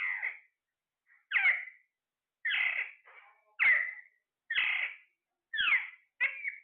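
A parrot calling over and over: about seven short squawks, roughly one a second, each falling in pitch.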